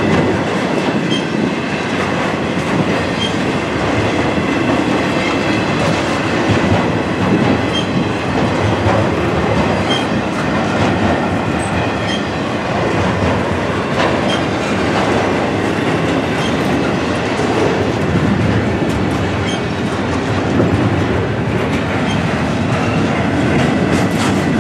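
Double-stack intermodal container and trailer cars of a freight train rolling past steadily, their steel wheels clacking over the rail joints with continuous rolling noise.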